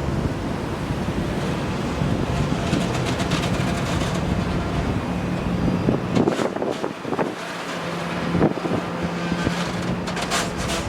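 Steady engine hum with wind buffeting the microphone, broken by a few knocks about six, eight and a half, and ten seconds in.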